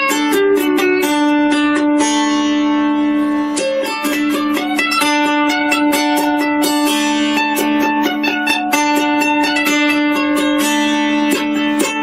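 Instrumental music on a plucked string instrument: quick plucked notes in a steady rhythm over a held drone note.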